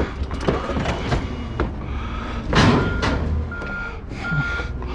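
Several knocks and clangs, the loudest about halfway through, then a vehicle's reversing alarm starts beeping at a steady single pitch, about three beeps every two seconds, over a running engine.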